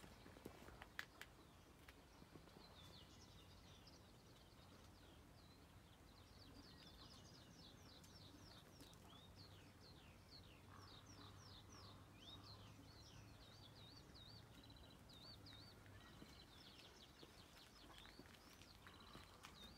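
Faint songbird singing: runs of quick sweeping notes and warbling trills, over a faint low hum. A few sharp clicks about a second in.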